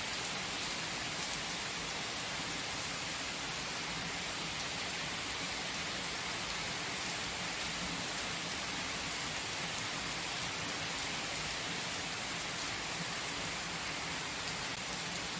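Steady rain falling, an even, unbroken hiss of many drops with no lulls.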